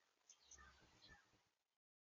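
Near silence: faint room tone with a few very faint short sounds, then the audio cuts to dead silence near the end.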